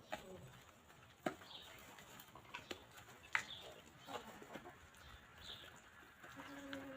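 Hens clucking softly now and then, with a few sharp taps scattered through and one longer, held cluck near the end.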